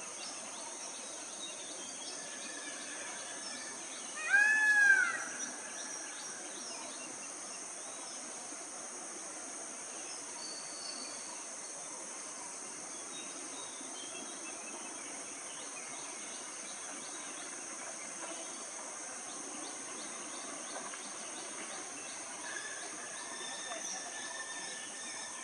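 Steady high-pitched insect drone with faint scattered bird chirps. About four seconds in, one loud, meow-like animal call rises and then falls in pitch over under a second.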